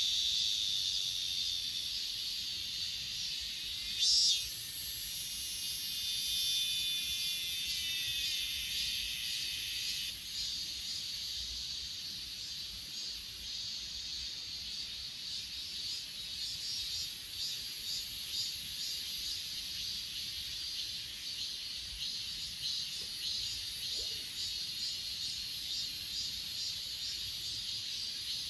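Chorus of grass insects such as crickets, chirping in fast high-pitched pulses. From about four seconds in, one nearer insect adds a louder, very high steady trill for about six seconds, then it fades back into the chorus.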